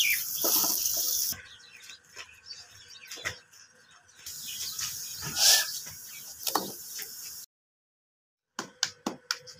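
Methi paratha frying in ghee on a hot iron tawa, sizzling in two stretches, one at the start and one from about four seconds in, with a few light clicks and knocks in between. The sound cuts out completely for about a second near the end.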